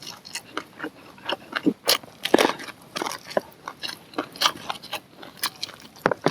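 Close-up biting and chewing of grilled corn on the cob: irregular crunchy clicks and wet mouth sounds, several a second. The kernels are rather old and tough, so the chewing is slow work.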